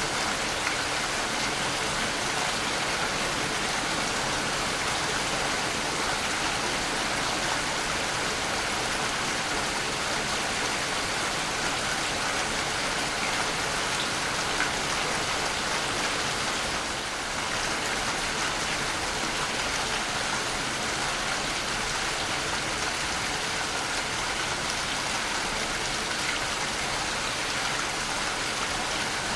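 Waterfall: a steady rush of falling and splashing water, hissy and even, with a brief slight dip in level about two-thirds of the way through.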